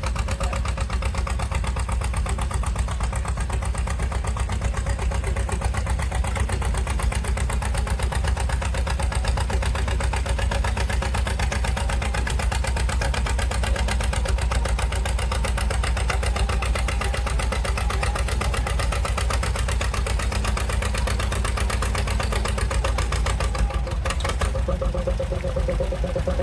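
Old John Deere tractor engine running steadily under heavy load as the tractor pulls a transfer sled down the track.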